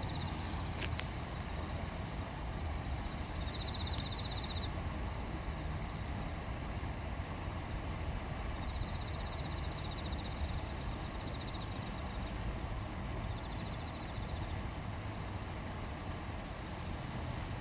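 A river stream flowing steadily, an even rush with a heavy low rumble. Over it, a high, rapidly pulsed trill sounds about four times.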